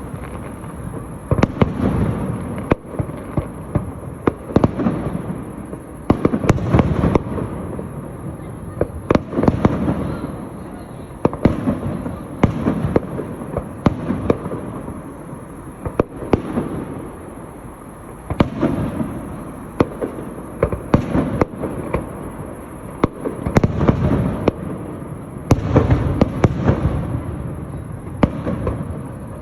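Fireworks display: shells bursting in a steady stream of sharp bangs every second or two, over low rumbling booms.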